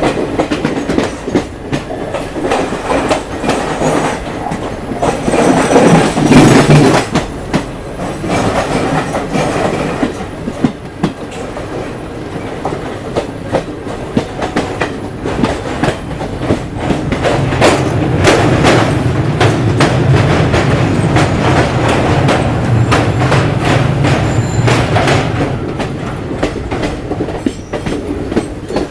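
Coromandel Express passenger train running along the track: a steady rumble with a rapid, uneven clatter of wheels over rail joints. A low steady hum joins in through the second half.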